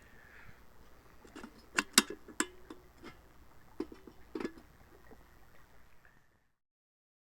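A scattered series of sharp knocks and clicks, a few with a short low ring, loudest about two seconds in; the sound then cuts off abruptly to dead silence.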